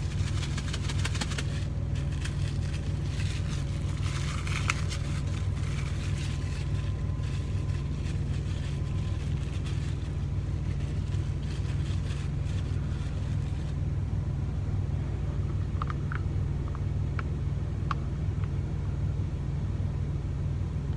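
Steady low drone of an idling engine, with plastic packaging crackling and rustling over roughly the first half as an MRE pouch is opened, and a few light clicks near the end.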